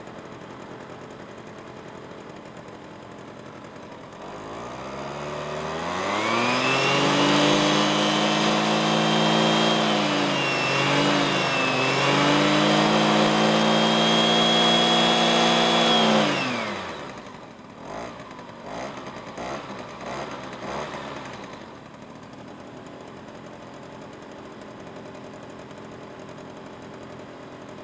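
Suzuki Address 110 scooter engine idling, then revved up over a few seconds and held at high revs for about ten seconds, with a brief dip midway. The revs drop back about two thirds of the way through, followed by a few quick throttle blips, and the engine settles back to a steady idle.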